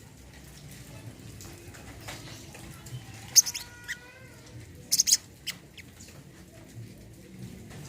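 Brown-throated sunbird (kolibri kelapa) calling: a few sharp, very short high chirps about three and a half and five seconds in, with some thin whistled notes between them, over a faint steady background hum.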